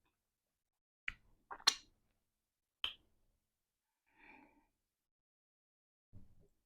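Mouth sounds from eating eba with soup: a few short, sharp wet smacks and clicks a second or so apart, then a fainter soft sound and a low one near the end.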